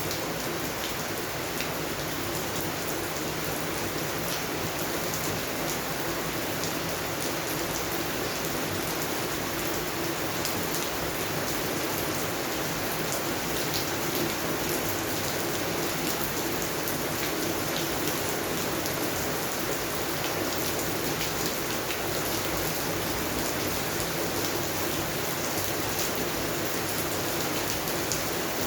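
Steady rain falling, with a dense patter of individual drops striking close by.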